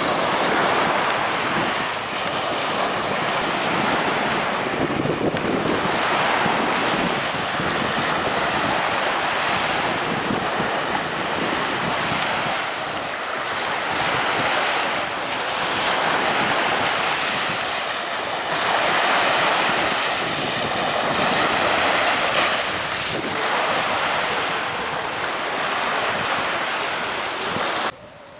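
Strong wind buffeting the microphone over rushing water and surf, swelling and easing in gusts, then dropping away suddenly just before the end.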